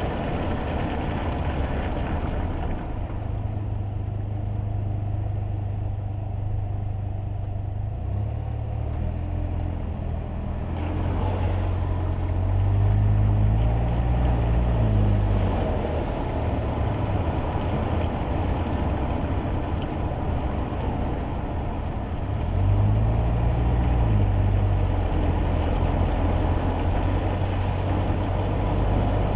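Kei car's small 660 cc engine and tyre noise on a wet road, heard from inside the cabin. The engine note rises and falls twice as the car speeds up, about twelve seconds in and again about twenty-two seconds in.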